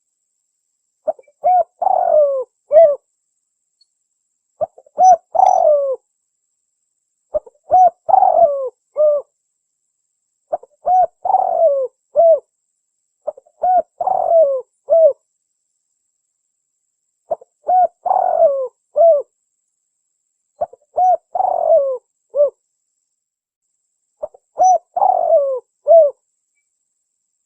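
Spotted dove (tekukur) cooing, used as a lure call: about eight phrases of a few low coo notes each, repeated roughly every three seconds with short pauses between.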